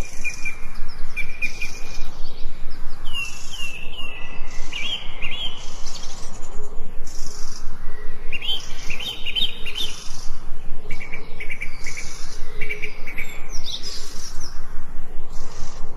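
Forest birds chirping and singing, with many short overlapping calls and quick trills throughout, over a steady background hiss.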